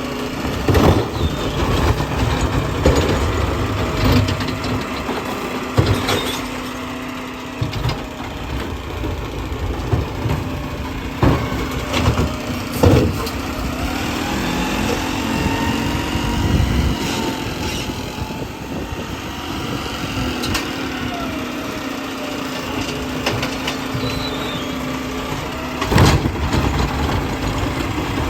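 Garbage truck engine running under hydraulic load while the packer compacts trash. A whine rises and falls midway, and sharp bangs and clanks come every few seconds.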